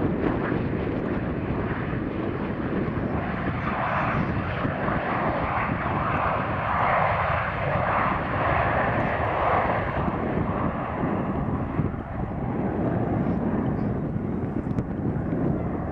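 An airliner's engines passing, growing louder from about three seconds in, loudest in the middle and fading away after about ten seconds, over steady wind buffeting the microphone.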